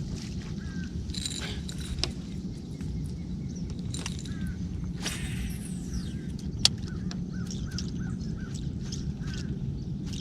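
Birds calling outdoors over a steady low rumble, with a quick run of short chirps later on. A single sharp click sounds about six and a half seconds in.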